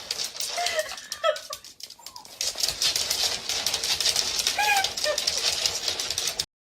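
A cat giving short meows several times, over a scratchy rustling noise that starts about two and a half seconds in; everything cuts off abruptly just before the end.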